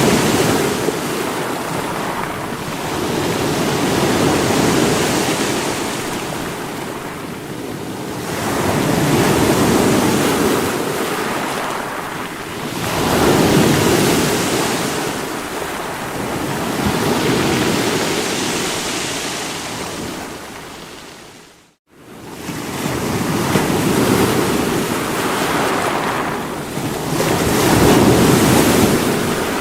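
Sea waves surging and breaking against rocks, the rush of water swelling and falling back about every four to five seconds. The sound cuts out for a split second about two-thirds of the way through, then the surf resumes.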